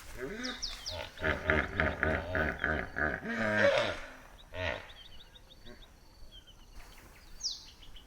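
Hippopotamus calling: a rhythmic run of honking grunts lasting about four seconds, then fading out. Small birds chirp thinly in the background, with a short high trill near the middle.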